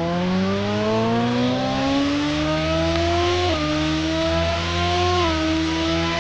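Motorcycle engine accelerating, its pitch climbing steadily and then dropping twice as it shifts up through the gears, with wind rushing past.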